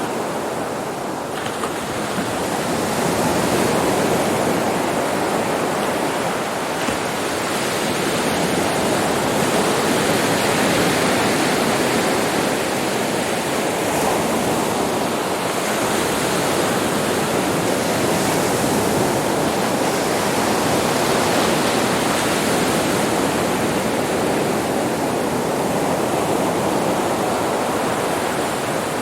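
Sea waves breaking and washing on a beach: a continuous surf roar that swells and eases slowly.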